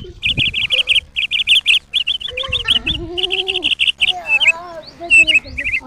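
Small birds chirping in fast runs of high, quick notes, with a lower, arching call twice in the middle.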